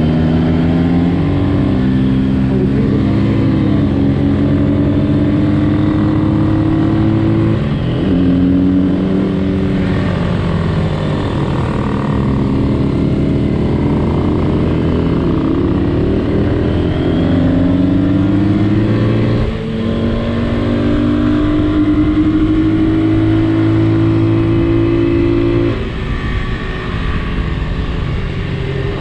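Small 1970s Honda motorcycle engine pulling up through the gears while riding. Its pitch climbs steadily in each gear and drops at each shift: about a quarter of the way in, about two-thirds in, and near the end.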